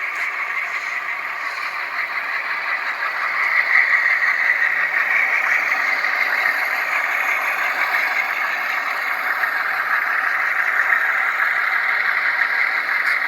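HO scale model train running on the layout: a steady, thin rattling clatter with no bass, growing a little louder about three and a half seconds in.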